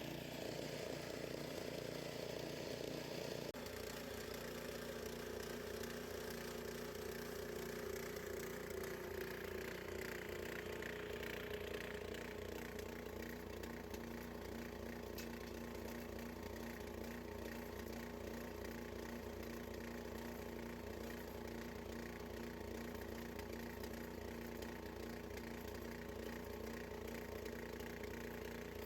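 Gas engine of a Harbor Freight bandsaw sawmill running steadily, its note changing about three and a half seconds in.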